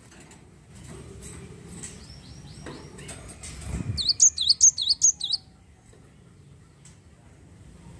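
Glatik wingko calling: a rapid, loud run of sharp high chirps lasting about a second and a half past the middle, after a few fainter repeated notes a little earlier.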